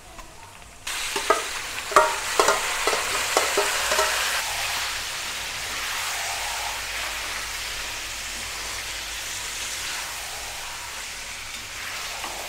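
Marinated chicken hitting hot oil and browned onions in a metal kadhai starts a loud frying sizzle all at once, about a second in. For the next few seconds a spoon knocks and scrapes against the pan as the chicken is stirred, and then the sizzle settles into a steady frying.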